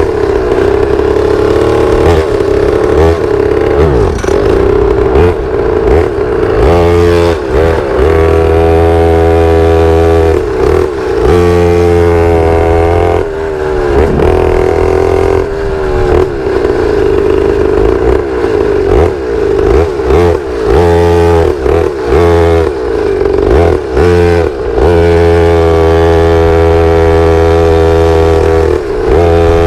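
Pit bike engine running under way, the revs repeatedly climbing and dropping back, with brief dips every few seconds as the throttle is rolled off or a gear is changed.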